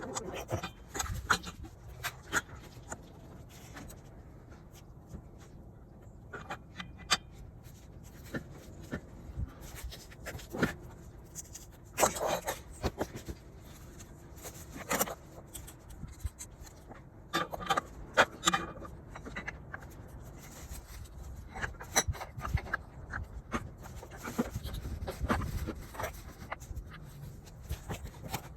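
Irregular clicks and knocks with some rubbing, as hand tools and scooter parts are handled during drive belt replacement work.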